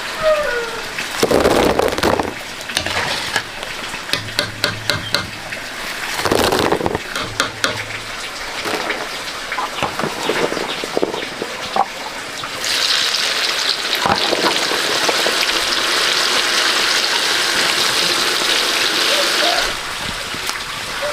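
Scattered knocks, scrapes and a quick run of clicks, then a steady hiss that starts suddenly, lasts about seven seconds and cuts off.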